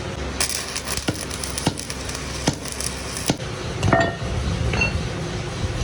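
Metal-on-metal workshop clinks: four sharp knocks about 0.7 s apart, then a couple of ringing metallic clinks near the end, over a steady low hum.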